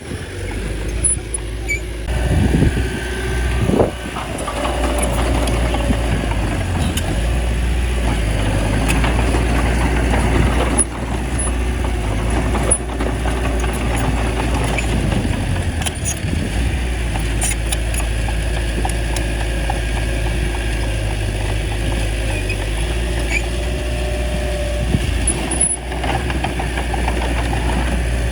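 Small bulldozer's diesel engine running steadily under load while pushing soil, with a few sharp clanks.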